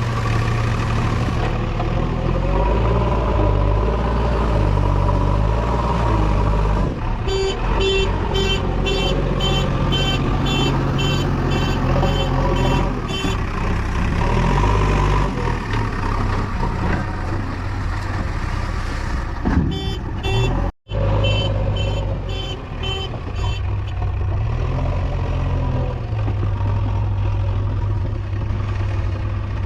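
JCB 3DX backhoe loader's diesel engine working under changing load, its low drone rising and falling as it digs and loads mud. A vehicle reversing alarm beeps about twice a second for several seconds from about 7 s in, and again briefly near 20 s and near the end.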